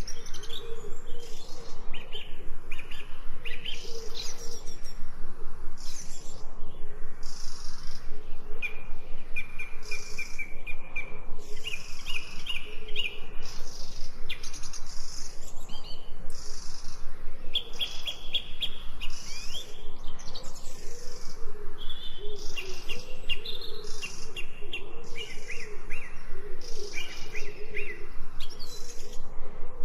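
Several songbirds chirping and singing, with rapid high trills and repeated short call notes throughout.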